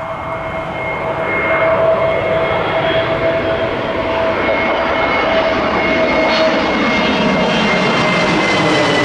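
Airbus A321neo jet airliner passing close on arrival. A loud engine whine with two steady tones swells over the first couple of seconds, then starts to drop in pitch near the end as the aircraft goes by.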